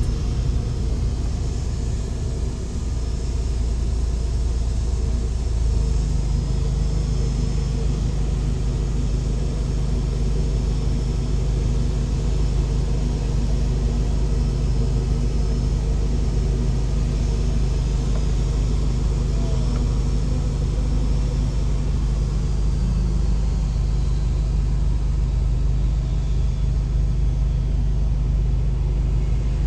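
Steady low drone of a helicopter's engine and rotor in flight: a deep hum with a few steady tones, stepping up a little in level about six seconds in.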